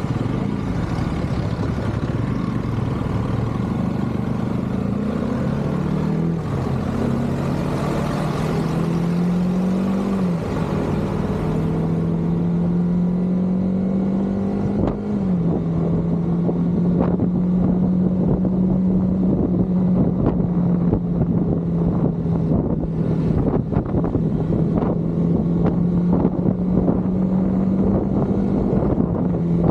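KTM motorcycle engine accelerating through the gears: its pitch climbs and drops at each upshift, three times in the first fifteen seconds, then holds steady at cruising speed.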